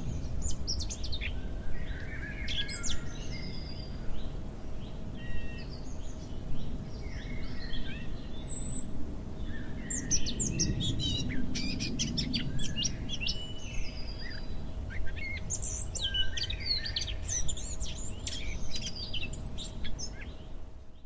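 Several birds chirping and singing, many short overlapping calls and trills, over a low rumble and a faint steady hum.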